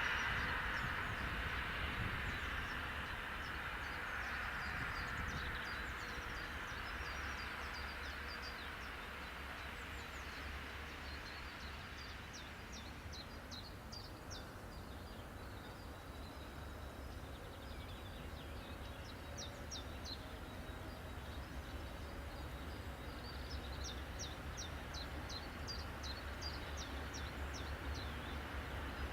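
A passing train's rolling noise fading away over the first dozen seconds, leaving outdoor ambience with a low steady rumble. Birds chirp throughout in quick runs of high notes, most densely near the end.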